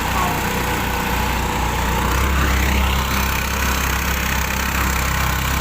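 A boat's engine running steadily, its low hum swelling slightly about two seconds in.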